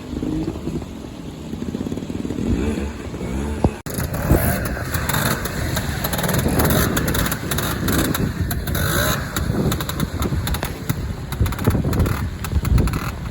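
Classic trials motorcycle engine running and revving unevenly as it is ridden through a section. There is an abrupt cut about four seconds in, after which the engine is louder and mixed with rattly noise.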